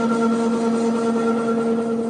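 A workshop machine running with a steady hum, fading away just after.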